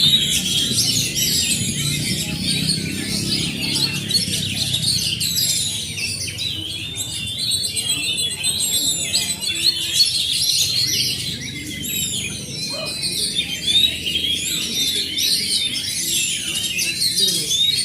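Several oriental magpie-robins (kacer) singing at once in competition, a dense overlapping mix of rising and falling whistles, chirps and trills, over a low steady background hum.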